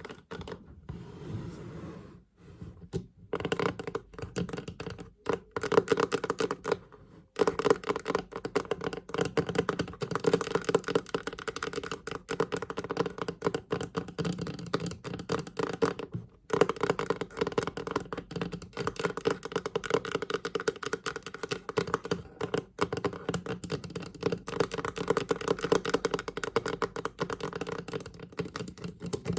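Fingers tapping rapidly on a chest, a dense run of quick taps with brief breaks about two, seven and sixteen seconds in.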